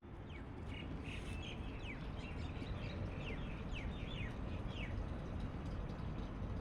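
Small birds chirping, a string of short, quick downward chirps that stop about five seconds in, over a steady low rumble.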